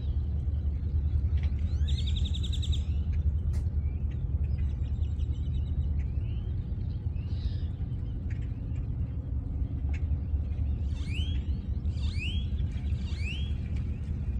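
Birds chirping over a steady low rumble. A brief rapid trill comes about two seconds in, and near the end a bird gives a run of four quick rising calls.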